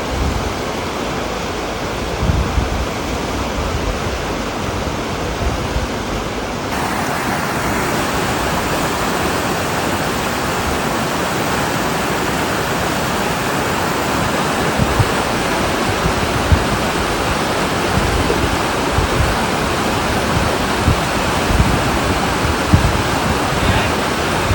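Rushing river water: a steady white-water roar with low thumps on the microphone. About seven seconds in, the sound abruptly turns brighter.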